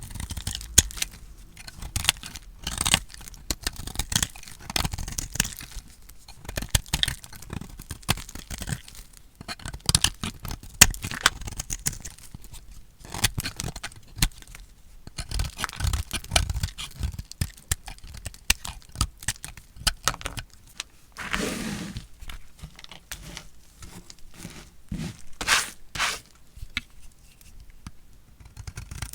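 A knife cutting through dry, painted bars of soap: a steady run of crisp crunching and scraping cuts. Around 21 to 22 seconds in there is one longer, smoother scrape.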